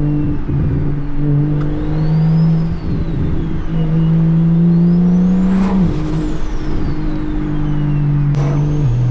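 Single-turbo BMW N54 straight-six engine and exhaust running under a light load while driving. Its note climbs gently and drops abruptly about six seconds in and again near the end. A faint high whine rises and falls along with it.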